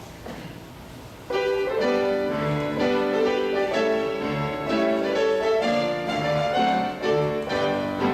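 Low room noise, then about a second in a piano starts the introduction to a choral anthem, playing a series of sustained chords.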